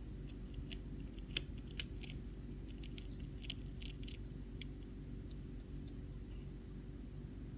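A hamster chewing cabbage leaf: quick, irregular crisp little clicks and crunches, thickest in the first half and thinning out near the end, over a steady low hum.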